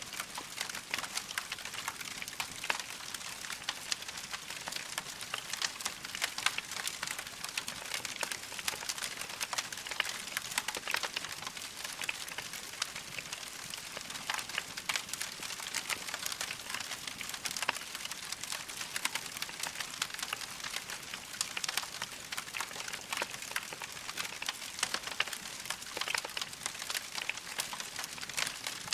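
Wood fire crackling in a fireplace: a steady hiss with dense, irregular small pops and snaps.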